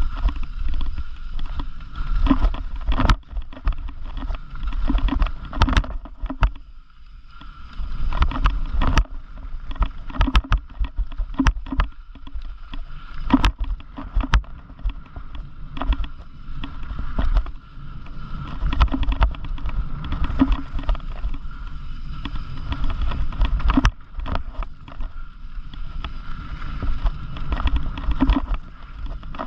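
Mountain bike being ridden over rough ground: wind rumbling on the camera microphone, with frequent sharp knocks and rattles as the bike goes over bumps.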